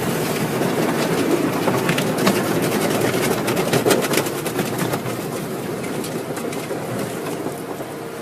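Car wash machinery running: a steady rush of spraying water and equipment noise with scattered clicks and rattles, slowly getting quieter toward the end.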